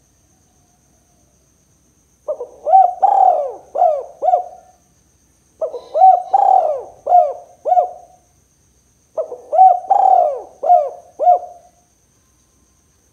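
Spotted dove cooing: three phrases of five or six short, arching coos each, a second or so apart.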